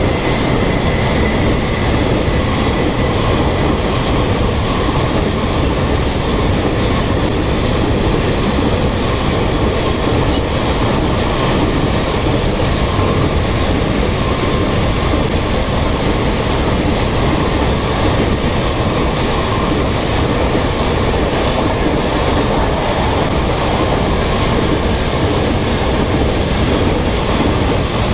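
Freight train of covered boxcars rolling past close by: a loud, steady rumble of steel wheels on the rails, with a faint high wheel squeal in the first few seconds.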